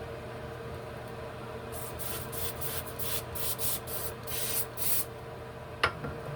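Lace-wig adhesive spray hissing in about ten short, quick sprays over a few seconds, then a single sharp click near the end.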